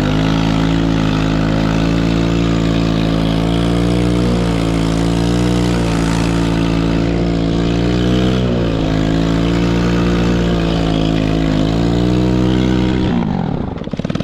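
Chinese 110cc ATV's small single-cylinder four-stroke engine running at steady high revs, its pitch wavering slightly. Near the end the revs fall away abruptly.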